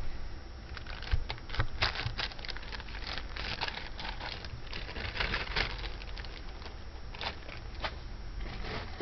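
Plastic bags crinkling and rustling with irregular small clicks and clatters as bagged costume jewelry is handled.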